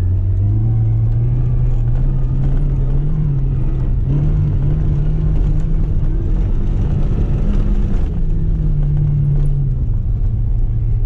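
Rally car engine running hard, its pitch climbing in the first second, rising and falling with the revs through the middle, and dropping back about nine seconds in.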